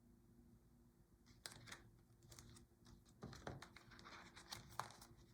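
Faint paper rustling and soft clicks, as of a picture-book page being handled and turned, scattered through the middle of a near-silent stretch.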